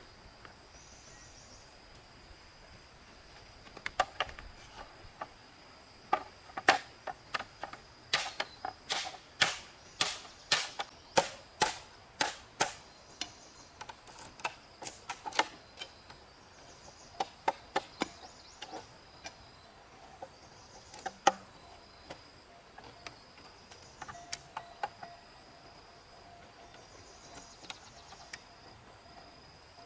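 A long run of sharp knocks, like blows of a tool on wood or stone, starting a few seconds in and thinning out near the end, about two a second at their densest. Insects chirr steadily in the background.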